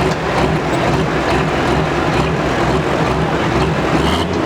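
Engine of a pulling truck or tractor running steadily at a loud, even level.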